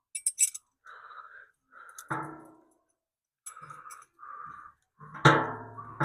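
Steel parts or tools clanking together: a few sharp clicks, then two ringing metal strikes about three seconds apart, the second the louder.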